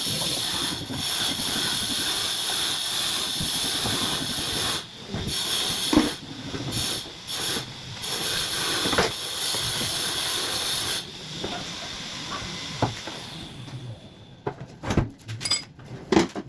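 Steady hiss of compressed air, broken by a few short pauses, cutting off about eleven seconds in and tailing away; a few sharp clicks and knocks follow near the end.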